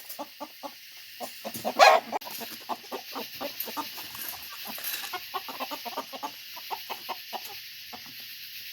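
Chickens clucking continuously in a disturbed flock as they are caught off their roost, with one loud squawk about two seconds in.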